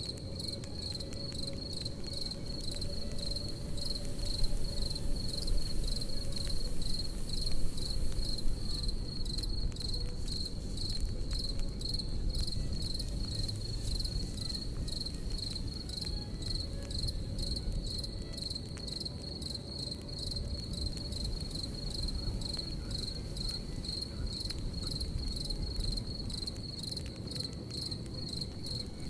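Crickets chirping steadily, about two chirps a second, over the low rush and faint crackle of a campfire, which swells a little between about four and nine seconds in.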